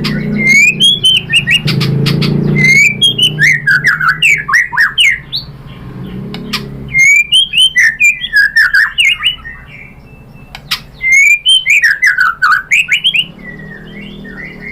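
White-rumped shama singing in three loud bursts with short pauses between. Each phrase opens with rising whistles and breaks into quick falling notes and sharp clicks.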